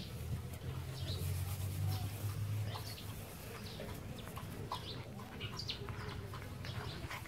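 Short, high chirps of small birds repeat through the background over the rustle of two puppies tussling in the grass. A vehicle engine hums low for the first three seconds or so.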